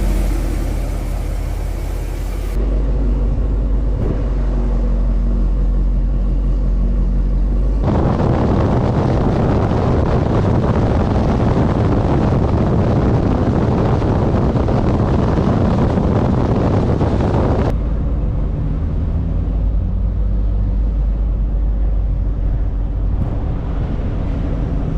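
Chevrolet C7 Corvette's V8 engine running steadily while driving. Its low drone gives way to a louder rushing stretch of road and wind noise in the middle, and the sound changes abruptly a few times.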